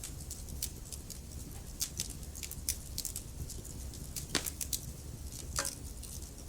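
Wood logs burning in a fireplace, crackling with many small irregular snaps and two louder pops in the second half, over a steady low rumble.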